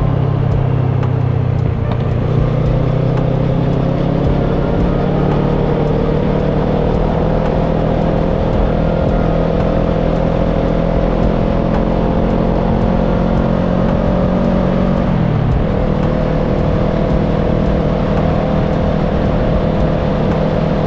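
Kawasaki ER-6n's 649 cc parallel-twin engine pulling steadily under way, its pitch creeping slowly upward. About three-quarters of the way through the pitch drops quickly, then holds steady.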